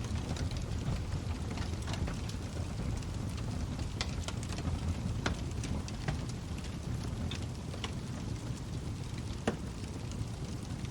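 Log fire burning with a steady low rumble of flames and irregular sharp crackles and pops from the wood, a few louder pops about four, five and nine and a half seconds in.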